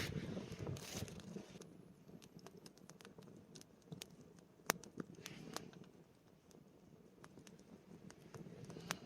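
Faint, irregular small ticks and crackles, scattered one by one over a quiet background, with a slightly louder snap near the middle and another near the end.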